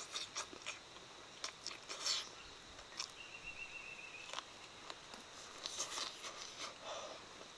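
A man chewing a mouthful of fried chicken wing and fresh lettuce leaves: irregular wet crunches, smacks and small clicks of the mouth. About three seconds in, a faint thin high note sounds for about a second.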